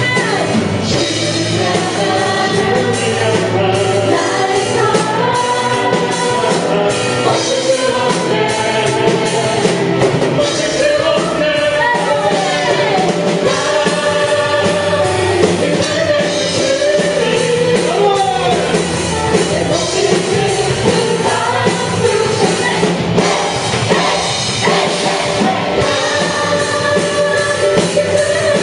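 Live contemporary worship song: singers with a full band of drum kit and instruments, played loud and steady.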